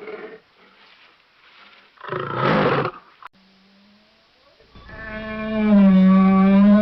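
Animal calls: a loud, rough, noisy call about two seconds in, then a long, loud pitched call that dips slightly and rises at its end.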